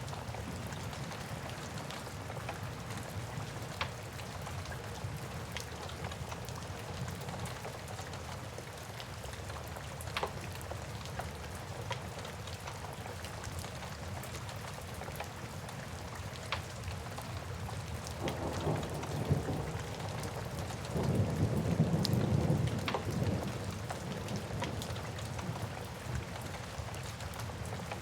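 Steady rain with scattered sharp pops of a crackling wood fire. About two-thirds of the way through, a low rumble of thunder builds, peaks and fades away.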